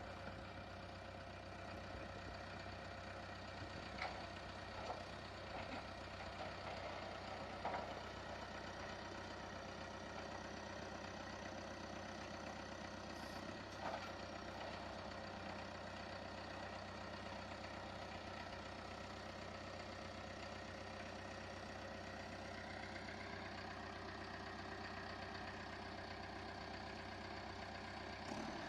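CAT D3K LGP crawler bulldozer's diesel engine running steadily, with a few sharp clanks in the first half and a slight rise in engine pitch past the middle.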